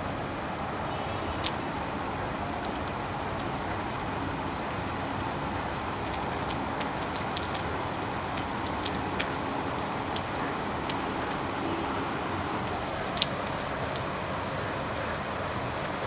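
Steady rain falling, with single drops now and then ticking sharply on a nearby surface; the sharpest tick comes about 13 seconds in.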